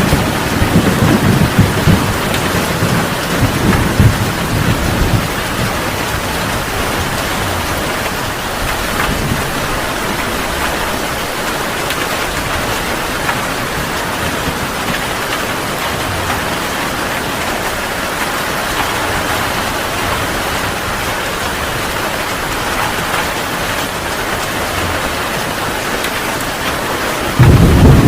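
Heavy rain falling steadily in a thunderstorm, with thunder rumbling in the first few seconds and dying away, then a sudden loud thunder rumble breaking in near the end.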